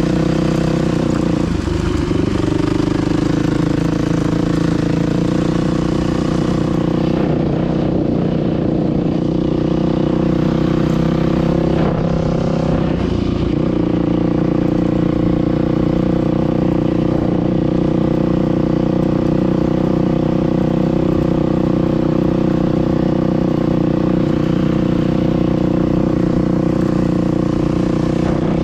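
Dirt bike engine running steadily under way, with brief changes in engine note about two seconds in and again about thirteen seconds in.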